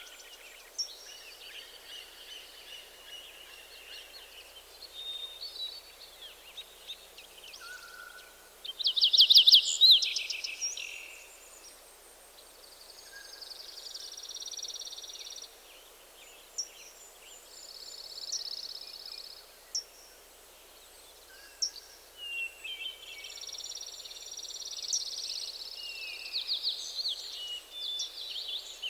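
Several songbirds singing in a forest: overlapping chirps and trilled phrases, with the loudest a rapid run of notes about nine seconds in. A faint steady hiss of forest ambience lies underneath.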